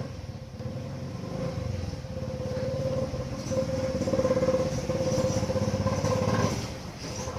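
An engine running with a steady whine over fast, even firing pulses, growing louder for several seconds and then easing off sharply near the end.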